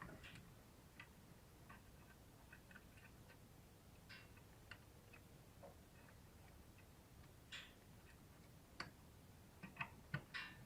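Faint, irregular clicks and taps of hand tools and metal parts being worked, a few sharper ones near the end.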